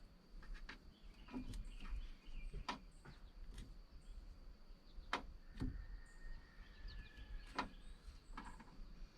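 Faint, scattered light clicks and taps from handling wiring and plastic parts while routing a mirror light's wire, over a faint steady high-pitched tone.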